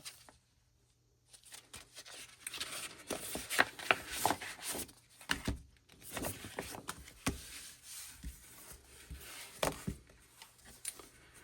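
Paper and cardboard album packaging being handled and opened: irregular rustling and sliding with scattered sharp taps and clicks, after a brief quiet moment at the start.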